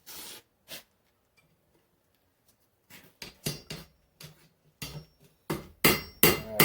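Irregular metallic clanks and knocks of hammer, tongs and a small piece of hot spring steel at a blacksmith's anvil, starting about three seconds in, the louder ones ringing briefly and the loudest near the end.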